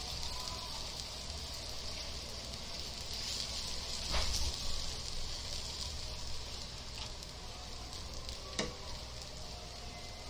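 Oil sizzling steadily under a stuffed paratha shallow-frying in a non-stick pan, with a couple of light knocks, about four and eight and a half seconds in.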